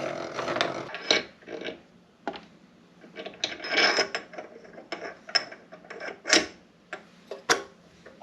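PM-25MV benchtop milling machine head being raised by hand: irregular mechanical clicking and rubbing from the handwheel and gearing, with sharp knocks scattered through.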